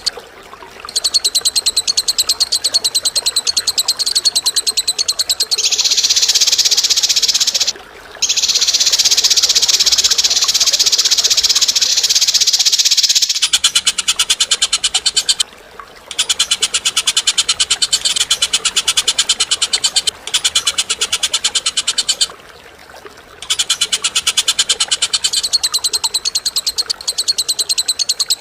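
Bird giving long, harsh rattling trills: a rapid stream of sharp, high notes in phrases several seconds long, each ending in a short pause.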